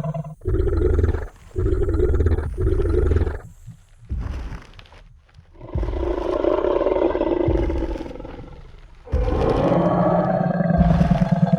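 Tyrannosaurus rex roar sound effect: three short, deep growls in quick succession, a low thud, then two long, loud roars.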